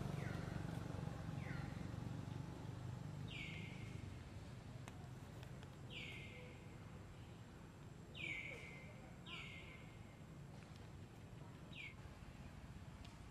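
A bird calling repeatedly: short high whistled notes that slide down in pitch and level off, about eight of them, over a faint low rumble that fades away.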